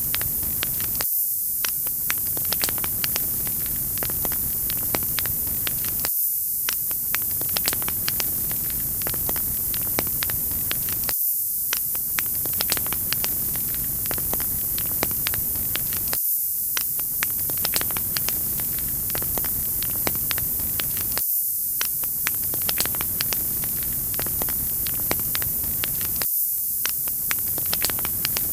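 Wood fire crackling: frequent sharp pops and snaps over a steady hiss. Every five seconds or so the lower sound drops out for a moment, a short recording looping.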